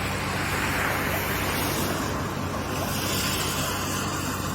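Floodwater rushing in a steady roar, with a steady low hum underneath.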